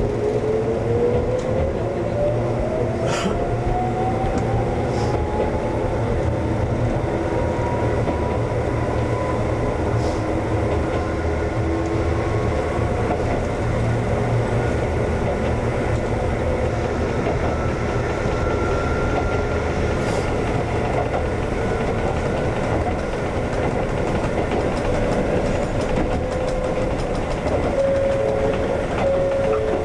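Konan Railway 7000 series (ex-Tokyu 7000) electric train running, its motor whine rising steadily in pitch for about eighteen seconds as it picks up speed, then levelling off. Under it a steady rolling rumble, with a few sharp clicks from the wheels on the rails.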